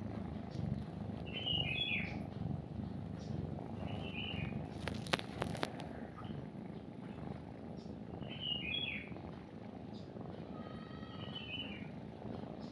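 A kitten purring steadily while nursing, a sign that it is content, with birds chirping in short bursts four times. A few sharp clicks about five seconds in.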